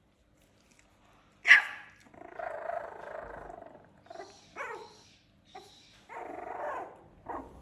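Puppies barking and growling: one loud sharp bark about one and a half seconds in, then longer drawn-out growls broken by short yaps.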